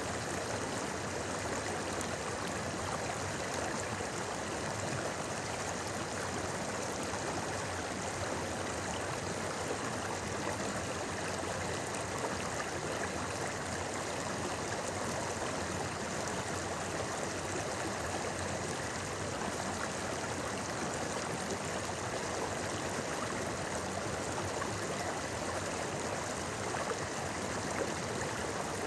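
A clear river babbling and rushing over stones, a steady, even water sound.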